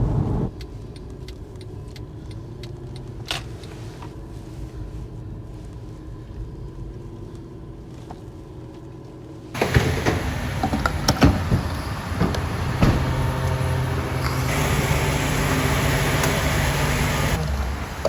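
Porsche 911 (997.1) on the move, its flat-six engine and road noise a steady low hum. About halfway through, the sound suddenly gets louder and noisier, with several clicks.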